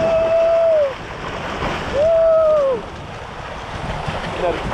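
A person yelling twice on a water slide ride, two long held cries each falling in pitch at the end, about two seconds apart, over rushing water and wind buffeting the microphone.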